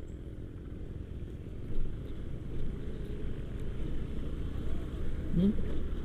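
Motorcycle engine running steadily as the bike is ridden along a rough road, a low rumble with a couple of small bumps about two seconds in.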